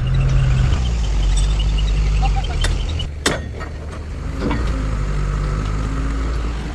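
Dumper truck's engine running steadily with a deep hum, and a sharp knock about three seconds in.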